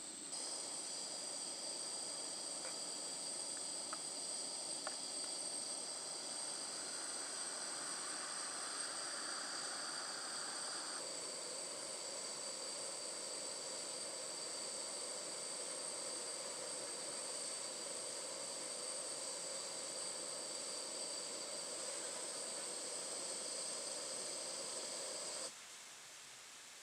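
A chorus of insects chirring steadily in high, unbroken tones over a soft hiss. The sound changes a little about eleven seconds in and cuts off suddenly near the end.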